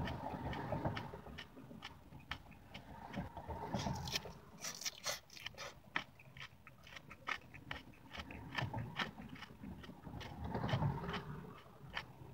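Close-up chewing of a mouthful of shredded lettuce and cabbage salad: a quick run of crisp crunches, densest in the middle.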